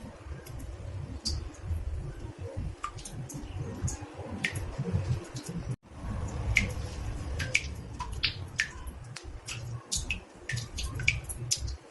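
Water drops falling into a bathtub: irregular short plinks, several a second, each rising slightly in pitch, over a steady low rumble. The sound cuts out for an instant near the middle.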